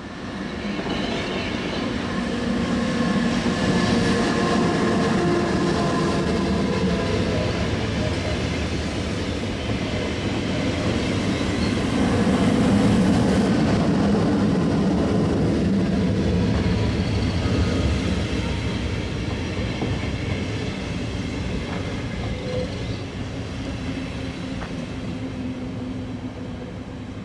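SBB double-deck electric S-Bahn trains running along the station tracks close by: a steady rumble of wheels on rail that builds in the first couple of seconds and eases off toward the end, with faint thin whining tones above it.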